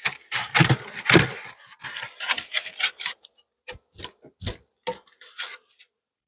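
Beehive parts being handled by hand: rough scraping and rubbing for the first second and a half, then a run of separate sharp clicks and short scrapes that stops about five and a half seconds in.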